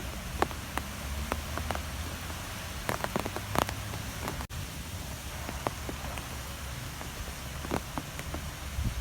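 Strong wind blowing steadily with a low rumble, and scattered sharp taps on a surface throughout. The sound cuts out for an instant about halfway through.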